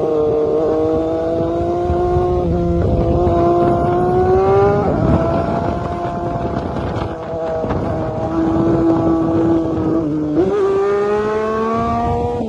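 Motorcycle engine running at speed, its pitch rising and falling gradually as the revs change, with a brief drop about ten seconds in followed by a quick rise.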